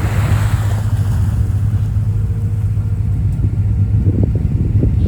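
Deep steady rumble of the Garinko icebreaker tour boat as its Archimedean screws grind and crush drift ice. A brief hissing rush of broken ice and water comes in the first second.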